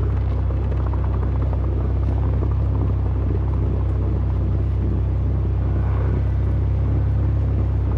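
Recovery vehicle's engine running steadily at low revs, a deep even hum with no change in speed.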